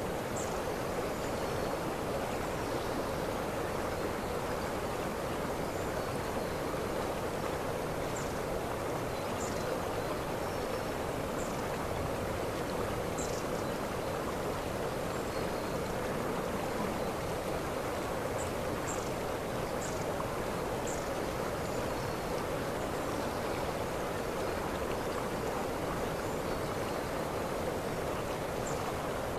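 Waterfall: a steady rush of falling water, with faint, short high chirps now and then.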